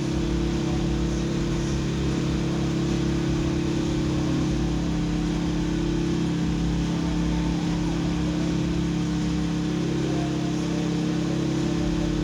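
A steady mechanical hum, like an engine running at a constant speed, with several low tones that hold their pitch without rising or falling.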